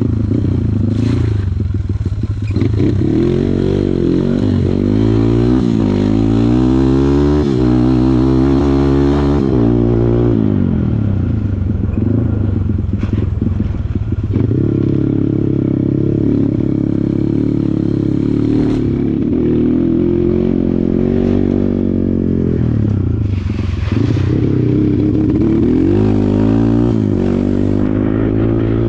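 Kawasaki KLX140 dirt bike's single-cylinder four-stroke engine being ridden off-road, revving up and dropping back several times as the throttle is worked, with rattling and scraping from the rough track.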